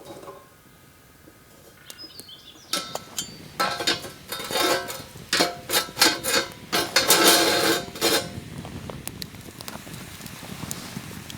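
Metal cookware and utensils clattering and clinking, a dense run of knocks and rattles lasting about five seconds that starts a few seconds in and stops abruptly.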